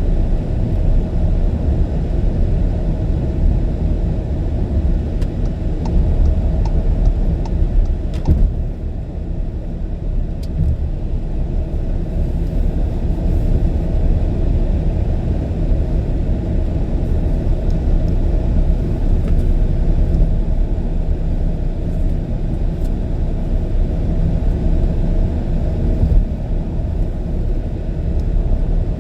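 Steady low rumble of road and engine noise from a car driving on an expressway, with a brief knock about eight seconds in.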